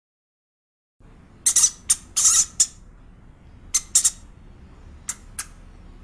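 A pet rat squeaking: short, sharp high-pitched squeaks in irregular clusters of two or three, starting about a second in.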